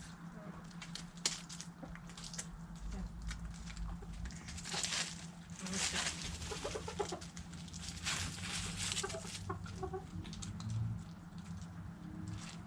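Backyard hens clucking in short, low calls over many sharp clicks and bursts of scratchy rustling as they feed on scraps. The rustling is strongest from about five to nine seconds in, and a steady low hum runs underneath.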